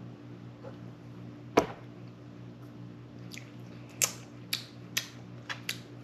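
Paintbrush dabbing paint onto a metal truck door: a handful of light, sharp taps, the loudest about a second and a half in and a quicker run of them later, over a steady low hum.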